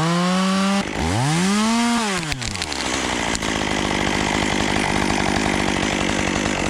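Chainsaw revved twice, its pitch rising and falling each time, then held at a lower, steady pitch under load as it cuts through a tree limb.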